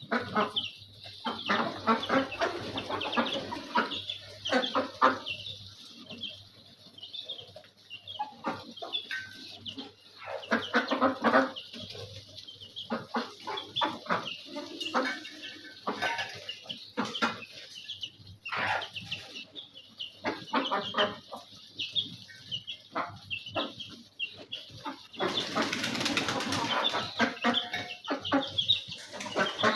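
Chickens clucking as they feed, with many short clicks and scratches throughout and a few seconds of louder rustling near the end.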